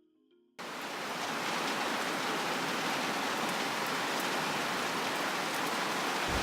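Torrential rain pouring down steadily together with the rush of a waterfall in flood, cutting in abruptly about half a second in.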